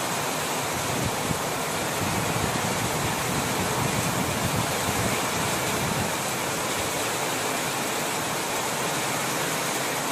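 Heavy downpour: a steady, even hiss of rain falling.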